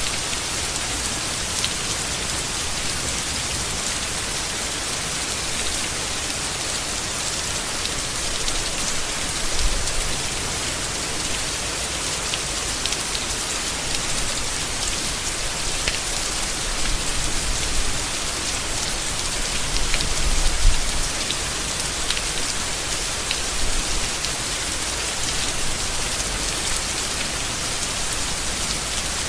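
Steady rain falling on leaves, a dense hiss with individual drops ticking through it. A couple of brief low rumbles swell under it, the strongest about two-thirds of the way through.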